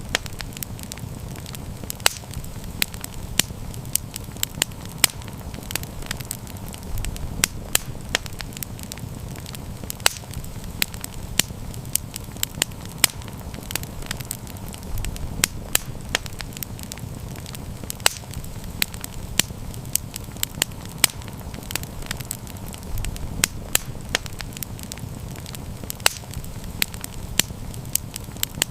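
Wood campfire burning and crackling: frequent sharp irregular pops and snaps over a low steady rumble of the flames.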